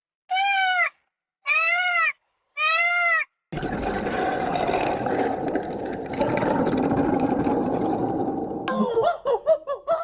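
Three short bleats, each rising and then falling in pitch, about a second apart, typical of a young goat or lamb. Then a steady rushing noise takes over for about five seconds, and quick chattering sounds begin near the end.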